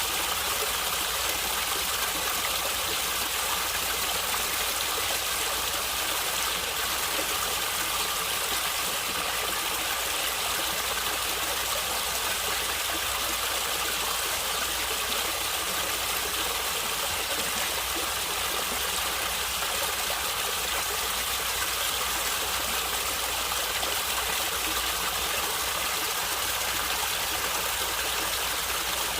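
Natural stream water flowing and gurgling steadily.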